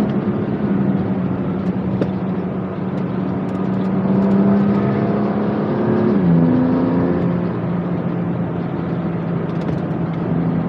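BMW M2 Competition's twin-turbo straight-six engine pulling under load at track speed, with tyre and road noise. The engine note climbs slowly, then drops sharply about six seconds in and carries on steady at the lower pitch.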